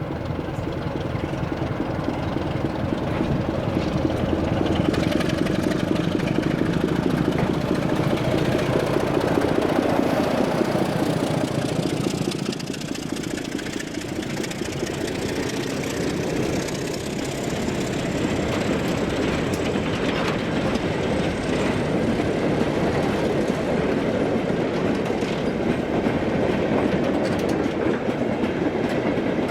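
A train running on the line: continuous running and rail noise with a steady low tone at first, easing briefly about twelve seconds in before building again.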